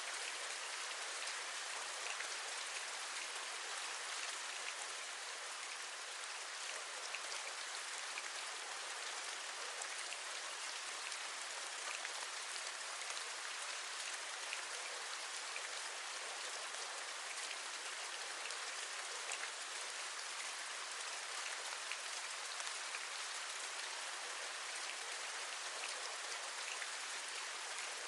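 Steady rain falling, with many small drops tapping on a surface.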